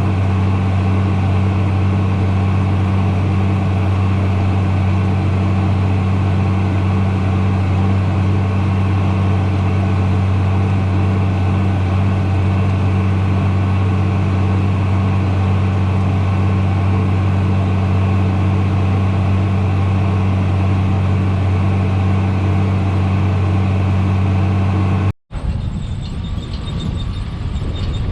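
Tractor engine running at a steady, unchanging speed, a constant low drone. About 25 seconds in it cuts off abruptly and a different, rougher engine sound takes over.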